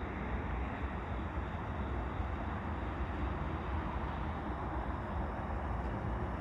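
Steady low rumble with a hiss above it, from the idling diesel locomotives of a stopped freight train.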